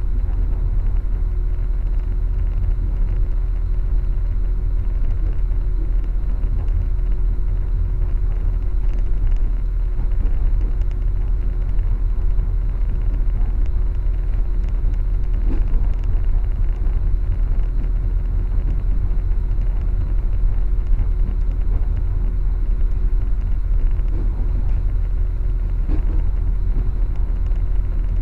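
Passenger train running at speed, heard from inside the carriage: a steady low rumble with a faint steady hum above it.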